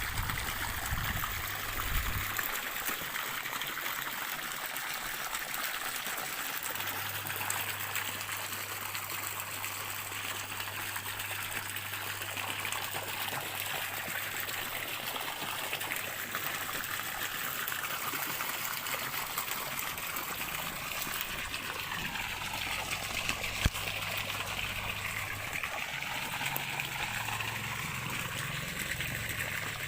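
Stream water trickling and gurgling steadily, with a low hum underneath for much of the time and a single sharp click about 24 seconds in.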